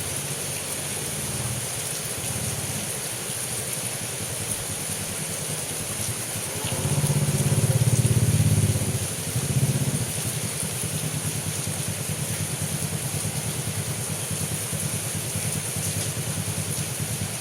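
Heavy rain falling steadily, with a low rumble underneath. The rumble swells louder about seven seconds in, holds for about two seconds, then falls back.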